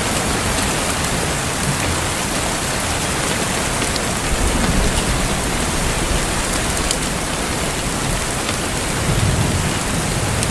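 Heavy rain falling steadily, with a few sharp ticks of drops striking close by and a couple of brief low swells.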